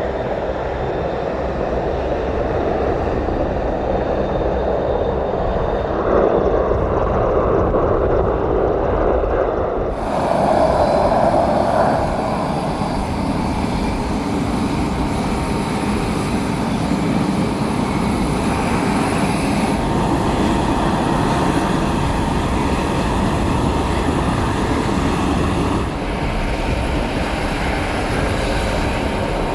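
Aircraft engines running steadily, with abrupt changes in the sound about ten seconds in and again around twenty and twenty-six seconds.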